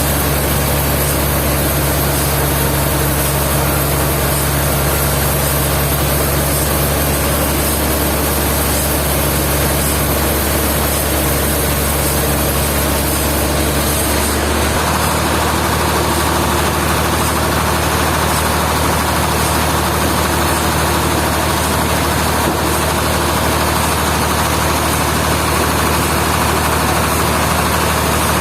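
A heavy machine's engine running steadily, its tone shifting about halfway through.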